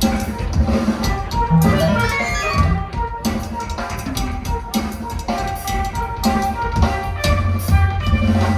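Live band playing loud, drum-heavy music: a steady beat of kit drums over bass and sustained pitched tones, heard from the audience.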